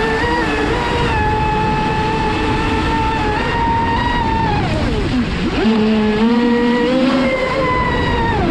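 Traxxas Spartan RC racing boat's brushless electric motor whining at speed, a steady high pitch over the rush of water. About five seconds in the pitch drops sharply as the throttle is eased off, then climbs back up as it is opened again.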